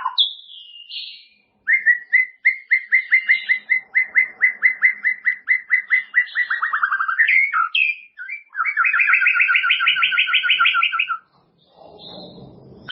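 White-rumped shama (murai batu) singing: a long run of rapidly repeated whistled notes that drop in pitch toward the end, a few separate notes, then a faster trill on two pitches. A brief low noise follows near the end.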